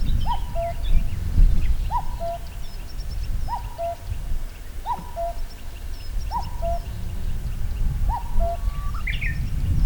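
Common cuckoo singing its two-note 'cuck-oo', a higher note falling to a lower one, six times at an even pace of about one call every 1.3 seconds. Fainter, higher chirps of other birds and a steady low rumble run underneath.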